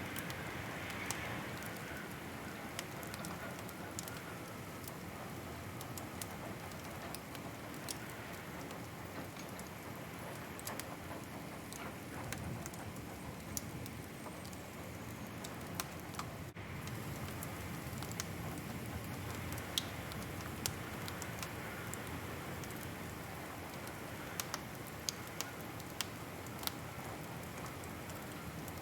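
Wood fire crackling: a steady soft hiss with scattered sharp pops and snaps throughout.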